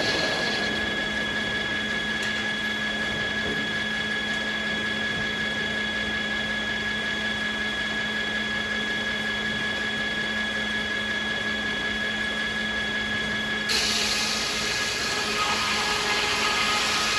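Sawmill circular saws spinning with a steady whine over machinery hum. About three quarters of the way through, a saw bites into beech wood and a loud, high, hissing cutting sound runs for about four seconds.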